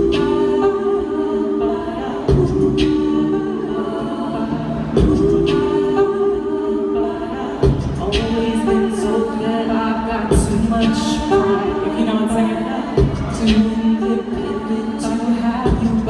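A cappella vocal music: several voices singing held chords, with a sharp accent every two to three seconds.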